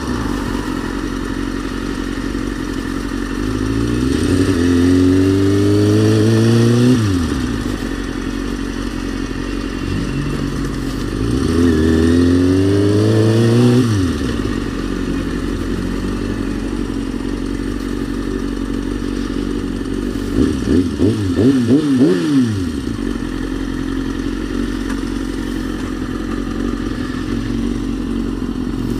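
Kawasaki ZX-6R 636 inline-four engine under way, pulling up through the revs twice with a long rising pitch that drops off sharply at each shift or roll-off. About twenty seconds in comes a quick run of short rises and falls in engine pitch, like throttle blips.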